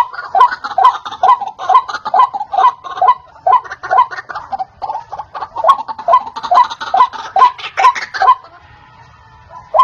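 White-breasted waterhen (ruak-ruak) calling: a loud run of repeated harsh notes, about two a second, that breaks off about eight seconds in and starts again just at the end.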